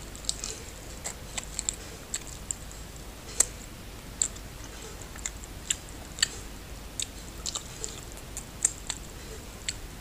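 A person chewing goat curry meat eaten by hand: a string of short, sharp, wet mouth clicks and smacks at irregular intervals.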